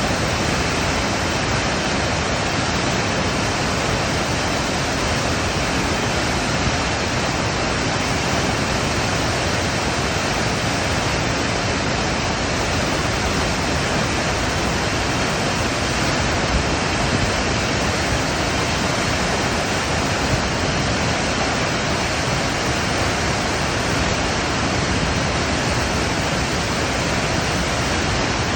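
Rushing water after rain: a loud, steady, unbroken rush with no distinct events.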